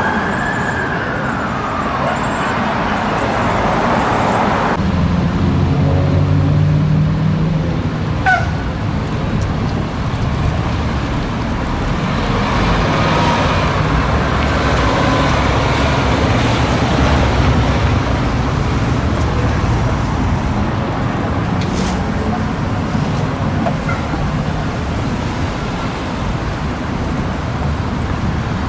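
Heavy road traffic and the low rumble of a large vehicle's engine, with the tail of an emergency siren wail dying away in the first couple of seconds. A brief sharp chirp comes about eight seconds in.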